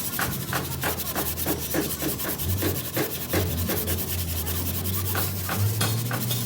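Hand sanding on car bodywork: rapid back-and-forth scraping strokes, several a second, over a steady low hum.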